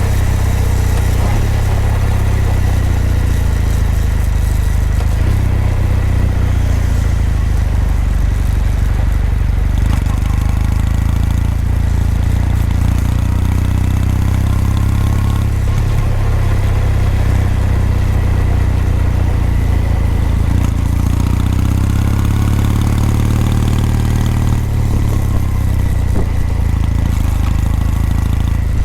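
Kawasaki W800's air-cooled parallel-twin engine and exhaust while riding, steady and loud, its pitch rising and falling several times with throttle and gear changes.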